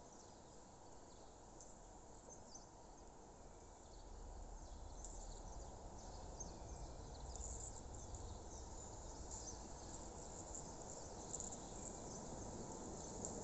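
Faint outdoor nature ambience: insects such as crickets chirping in quick high trills, with a few bird chirps, over a steady low noise. A low rumble comes in about four seconds in.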